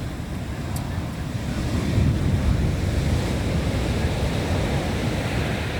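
Sea waves breaking and washing up a beach, one swelling in about two seconds in, with wind rumbling on the microphone.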